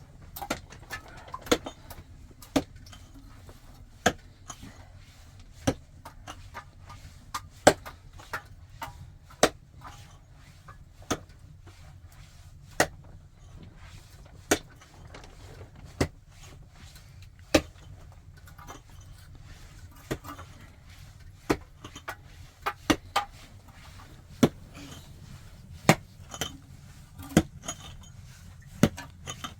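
Repeated chopping blows of a hand tool, sharp knocks coming about once every one and a half seconds at a steady working pace.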